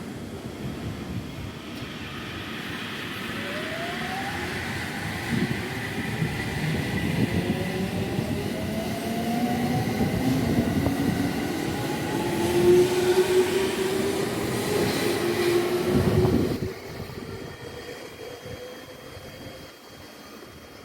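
Electric train on the move, with wheel-on-rail rumble and a motor whine made of several tones rising steadily in pitch as it gathers speed. It grows louder, then drops away abruptly about three-quarters of the way through.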